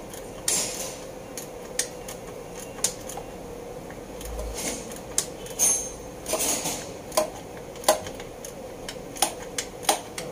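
Metal hand tools and engine hardware clinking, tapping and scraping at irregular intervals during engine assembly work, over a faint steady hum.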